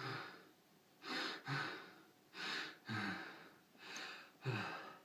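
A man performing heavy, surprised breathing: about six deep breaths in and out, roughly a second apart, several starting with a short voiced gasp. It is acted as breathless astonishment after an extreme series of events, more surprised than upset.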